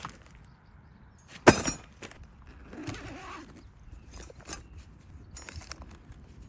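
Objects being handled: one loud, sharp knock about a second and a half in, then smaller clicks and a short rustle.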